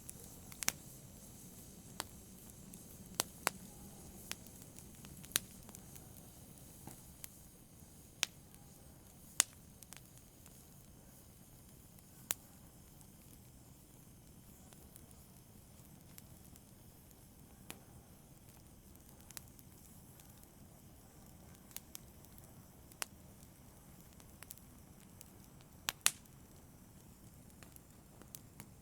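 Wood fire crackling in a fireplace: sharp, irregular pops over a faint low rush, the loudest about nine seconds in and again near the end.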